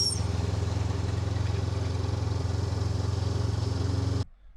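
Honda NX500's parallel-twin engine running steadily at low revs, with no rise or fall in pitch; the sound cuts off abruptly about four seconds in.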